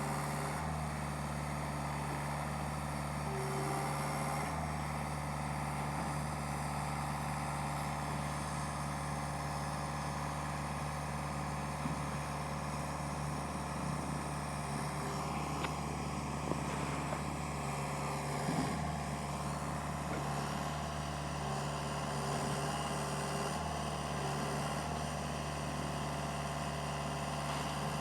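Truck engine running steadily, a constant low drone with a few faint knocks.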